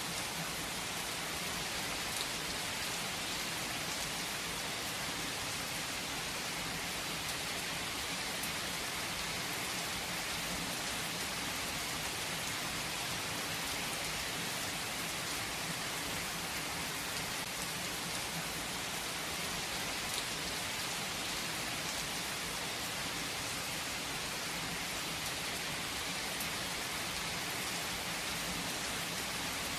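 Steady rain falling: an even hiss with the odd sharper drop ticking through.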